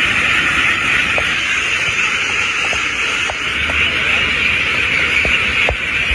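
A large flock of domestic ducks quacking all at once, blending into a steady, dense din.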